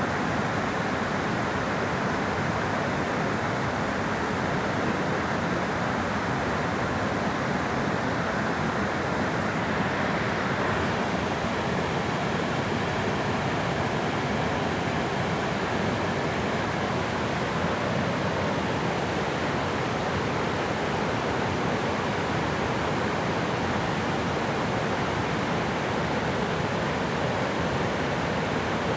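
Steady rush of water flowing at a dam, an even, unbroken roar.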